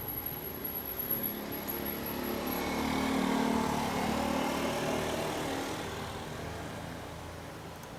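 Engine of a passing motor vehicle, swelling to its loudest about three to four seconds in and then slowly fading away.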